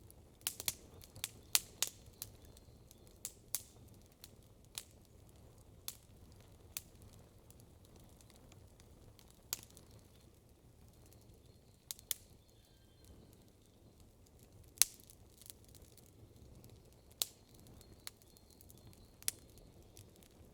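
Wood campfire crackling: irregular sharp snaps and pops, a quick cluster in the first two seconds, then scattered single pops every second or two, the loudest about fifteen seconds in, over a faint low background hiss.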